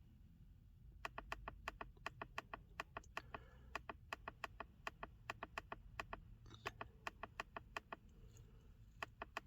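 Faint, rapid, evenly spaced clicking, about six clicks a second, over a low steady hum. The clicking starts about a second in and breaks off briefly a couple of times.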